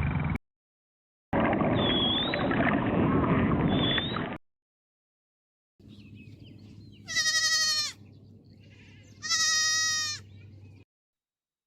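Two bleats from a farm animal, each about a second long and falling in pitch, about two seconds apart, after a few seconds of an unidentified noisy sound from another clip.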